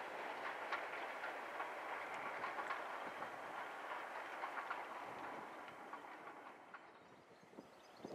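Passing passenger train's wheels running on the rails with repeated clicks over the rail joints, fading away as the train recedes into the distance over the last few seconds.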